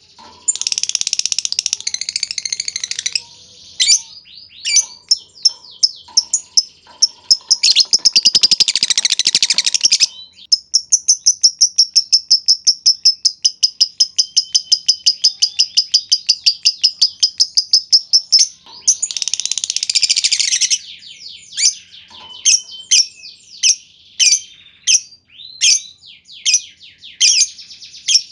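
Lovebirds calling: bursts of dense, shrill chatter and sharp separate chirps, with a long trill of rapid, evenly repeated notes lasting about eight seconds in the middle, the long 'ngekek' call.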